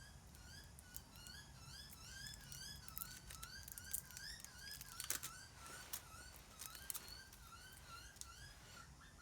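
A bird calling over and over in a steady run of short rising chirps, about three a second, with scattered faint clicks and crinkles of hands handling a tube patch and its foil backing.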